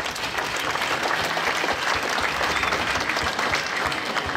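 Audience applauding, a steady mass of many hands clapping.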